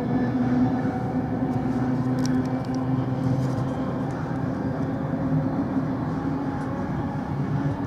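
Steady hum and rumble of a moving train, heard from on board. A few light clicks come about two to three seconds in.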